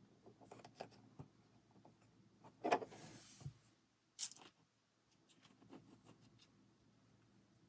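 Plastic LEGO bricks being handled and pressed together: scattered light clicks and rustling, with a louder clatter about three seconds in and a sharp click a second later.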